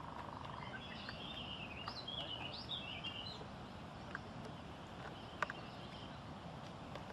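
A songbird gives a short, jumbled twittering phrase about a second in, lasting a couple of seconds, over a steady hum of outdoor background noise. A single sharp click comes about five seconds in.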